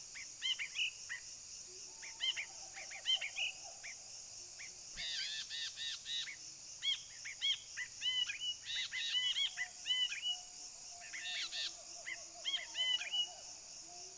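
Brinji bulbul calling in clusters of short, arched chirping notes, over a steady high-pitched insect drone.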